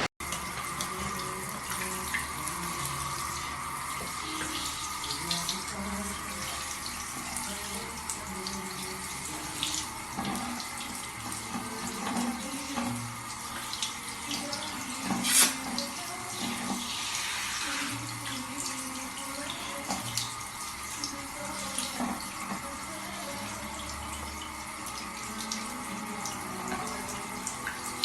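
Water running steadily, like a tap running into a sink, with one sharp knock about halfway through.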